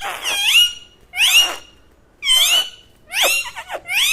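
Pet parrot calling: four short, loud calls about a second apart, each rising and then falling in pitch.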